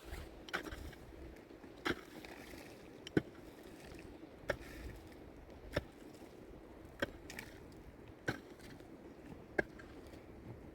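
A hand tool striking repeatedly at an even pace, about one blow every second and a quarter, some blows followed by a short scrape.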